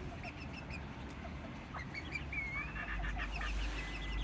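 Birds chirping and calling: runs of quick short chirps, a brief rising-and-falling whistle about halfway through and a thin steady note near the end, over a low rumble.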